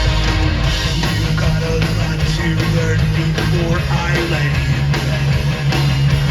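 Live punk rock band playing an instrumental passage: distorted electric guitars, bass and drums, loud and steady, with no singing.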